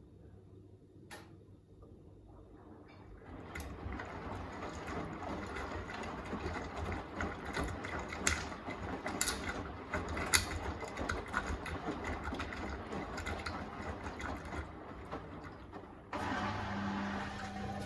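Beko WTK104121A washing machine during its wash cycle: after a quiet pause the drum starts turning, with laundry and water tumbling and occasional sharp knocks. About sixteen seconds in, a steady low motor hum starts suddenly.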